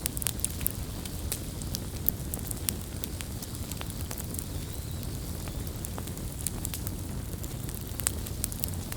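Wood campfire burning: a steady low rumble of flames with irregular sharp crackles and pops from the burning wood.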